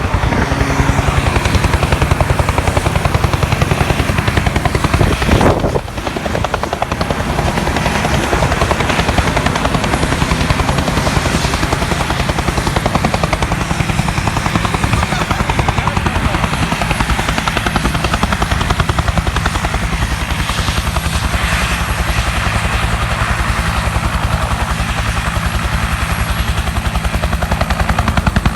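Firefighting helicopter running close by, its rotor blades chopping in a rapid, steady beat over the turbine.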